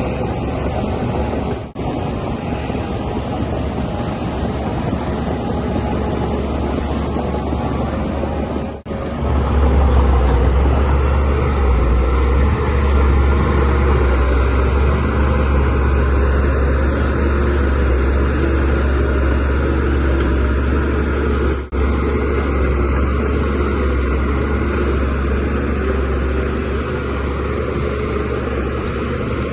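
Shantui DH17C3Pro bulldozer's diesel engine running steadily with a deep rumble. The rumble grows louder about a third of the way in. The sound drops out briefly three times.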